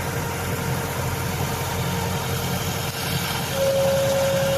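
An engine idling with a steady low, throbbing hum, likely road-works machinery. A steady high tone comes in over it about three and a half seconds in.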